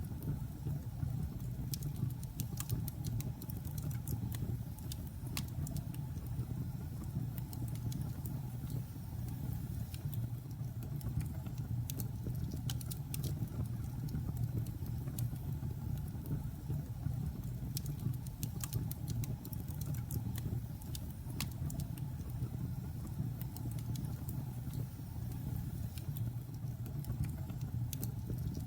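Logs burning in a fireplace: a steady low rumble of the fire with frequent sharp crackles and pops from the wood, coming irregularly, some in quick clusters.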